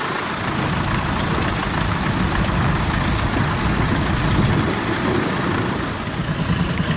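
Tractor engine running steadily, with a quicker pulsing beat in its loudness near the end.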